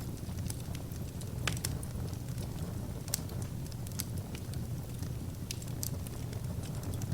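Wood fire burning, with a steady low rumble under irregular sharp crackles and pops; a few louder pops stand out among the smaller ones.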